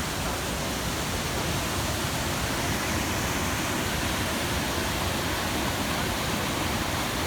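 Mountain stream rushing steadily over rocks, an even hiss of falling water.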